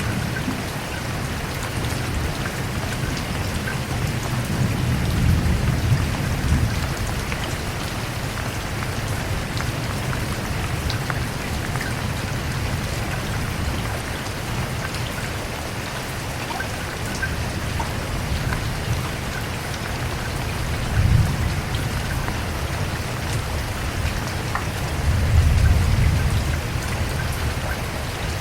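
Steady rain falling, with scattered drops ticking on a surface, and low rolls of distant thunder swelling three times: about four seconds in, about three-quarters through, and near the end.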